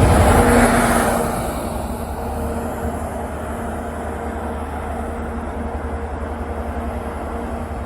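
Passing train, its noise dropping away over the first second or so and leaving a steady low rumble.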